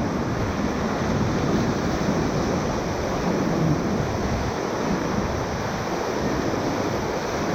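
Rushing whitewater of a river rapid at high water, a steady, loud wash of water with wind buffeting the microphone.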